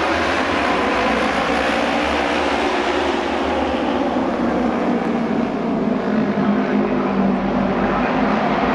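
A pack of Japanese auto race motorcycles running together around the oval. Their engines blend into one loud, steady drone, with pitches shifting as the bikes come round and pass.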